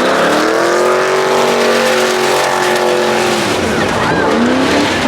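Truck engine revved up and held at high revs with tyres spinning in a burnout, over a rushing hiss. About three and a half seconds in the revs drop away, followed by short rev blips.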